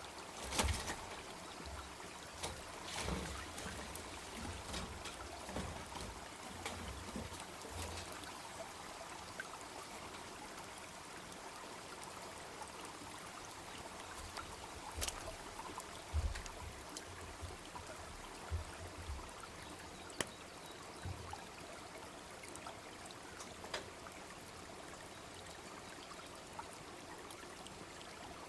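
A small brook babbling steadily, with a wood bonfire crackling and giving occasional sharp pops, the loudest about half a second in. Brief low rumbles come and go, mostly in the first half.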